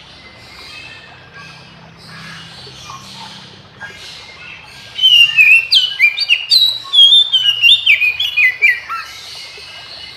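Oriental magpie-robin (kacer) singing. Faint calls at first, then from about five seconds in a loud run of quick whistled phrases, many sliding down in pitch, mixed with short clicks, fading after about four seconds.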